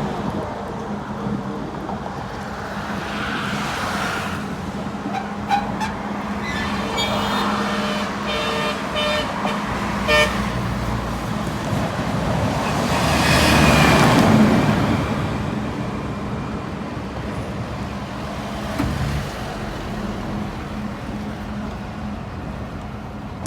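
Road traffic heard from an open pedicab in motion: a steady hum throughout, a vehicle horn tooting about a third of the way in, and a passing vehicle that swells to the loudest point a little past the middle.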